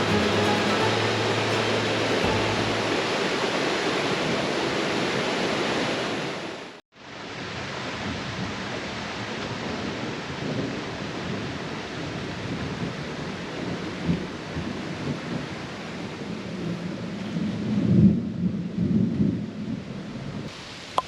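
Waterfall rushing steadily, a dense even noise. It drops out briefly about seven seconds in, and there are a few low bumps and rumbles near the end.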